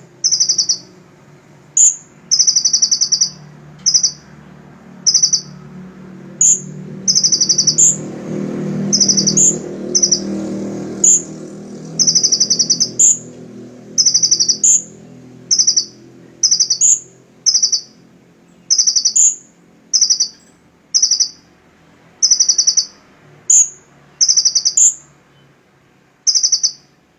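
A small songbird repeating a short, high, rattling call about once a second, each call opening with a brief higher note. A faint low hum swells and fades in the background partway through.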